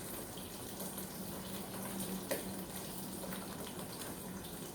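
Water running steadily from a kitchen tap, with a faint steady hum and a couple of light clicks, like utensils or dishes being touched.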